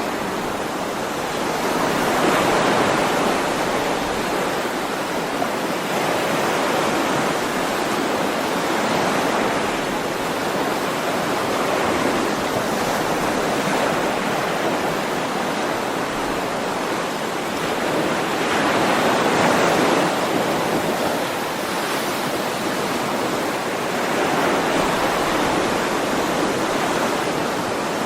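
Ocean waves washing on a shore in a steady rush of surf that swells and ebbs every few seconds.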